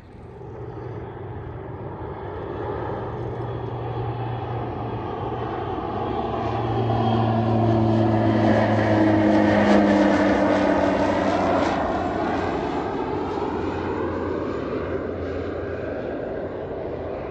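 An airplane flying overhead: its engine noise grows louder to a peak about ten seconds in, then fades as it passes, its engine tones dropping slightly in pitch.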